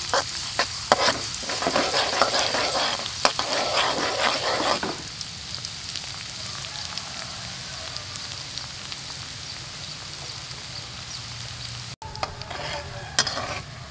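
Minced garlic and chopped chilies sizzling in hot oil in a metal wok, with a metal spatula scraping and clicking against the wok for the first five seconds. Then a steady sizzle, and the spatula's clicks resume near the end.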